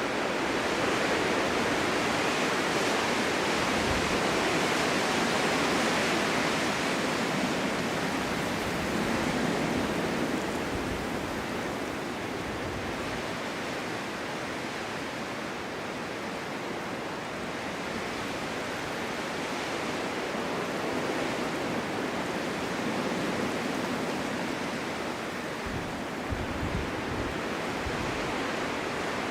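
Winter wind of a snowstorm blowing steadily in gusts, swelling and easing slowly, with brief low rumbles from stronger gusts.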